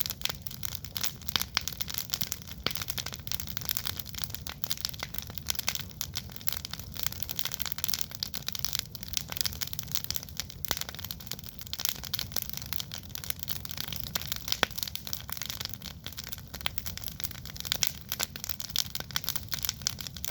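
Wood campfire crackling, with a dense, irregular run of sharp snaps over a low steady rumble.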